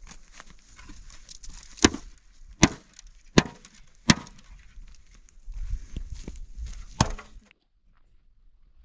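Sharp chopping blows: four in a row about three-quarters of a second apart, then a fifth about three seconds later, before the sound cuts out abruptly.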